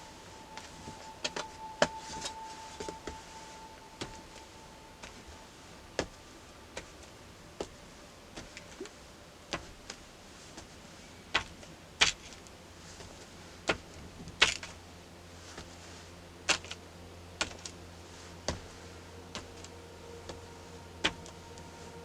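Irregular small clicks and taps from pens and paper being handled at a desk, about one a second, a few sharper than the rest.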